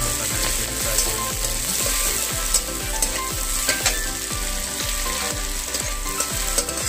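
Chopped onion, garlic and green chillies sizzling in hot oil in a metal kadai, with a metal spatula scraping and clicking against the pan in irregular strokes as they are stirred.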